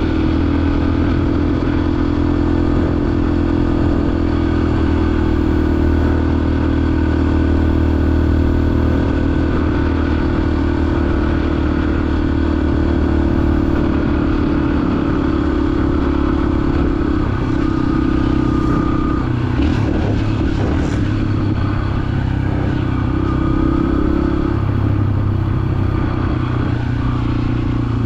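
Small dirt bike engine running steadily under load as it is ridden, its pitch shifting slightly with the throttle, with brief clatter from rough ground partway through.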